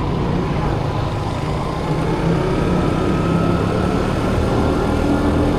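Motorbike engine running with road and wind noise while riding through busy city traffic, a steady rumble with a faint whine that rises slowly.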